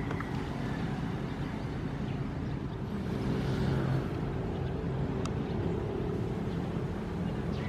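Ocean waves with a steady low rumble. A wave washes through about three to four seconds in, and there is a single sharp tick about five seconds in.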